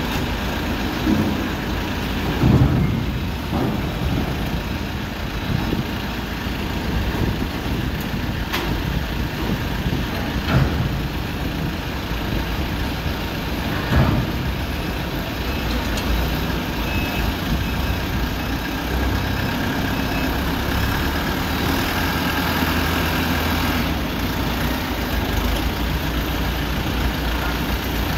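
Tractor engine running steadily with a low rumble, broken by a few short knocks or clunks.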